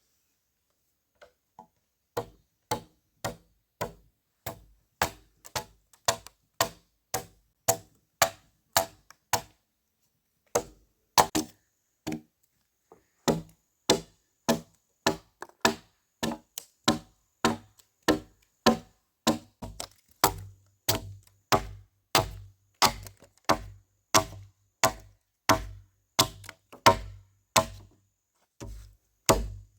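Wood struck again and again with a hand tool, in a steady run of about two blows a second with a short break about ten seconds in.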